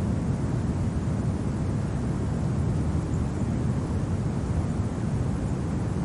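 Steady winter wind ambience: an even, low rumble with no distinct events.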